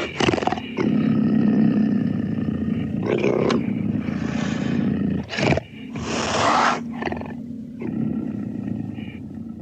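Beast-like growling sound effect: a continuous low growl broken by several louder roars.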